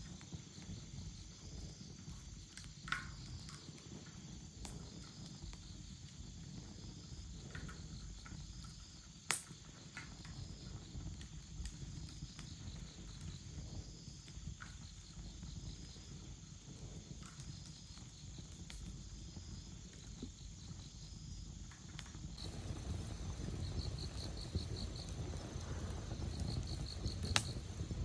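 Insects chirping in steady high pulsed trills, with a low rumble underneath that grows louder near the end and a few sharp clicks.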